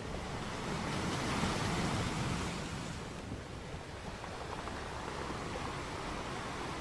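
Sea surf washing on a shore, swelling about a second in and then easing to a steady rush.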